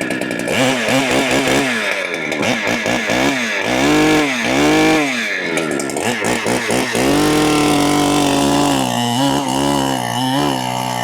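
Big two-stroke Holzfforma clone chainsaw revving up and down in several quick bursts, then held at high revs for about two seconds before wavering again, working a large white oak log.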